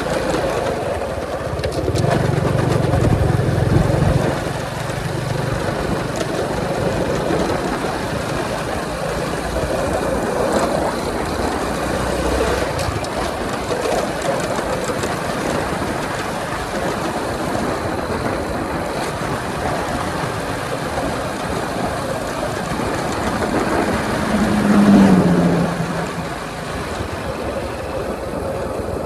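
Honda 125 motorcycle riding at highway speed: the engine runs steadily under a rushing haze of wind and road noise. A deeper rumble swells about two to four seconds in, and a short louder falling tone passes near the end.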